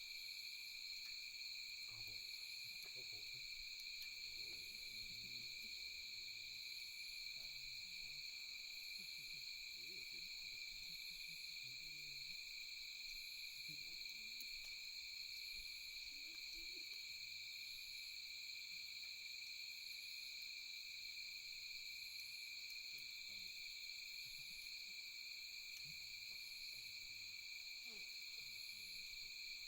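Night insects, crickets and katydids, trilling steadily in several overlapping pitches, with a higher chirp repeating about every one and a half seconds.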